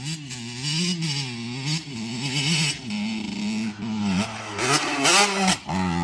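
Dirt bike engine revving up and down over and over, its pitch rising and falling, with a sharp climb in revs about five seconds in.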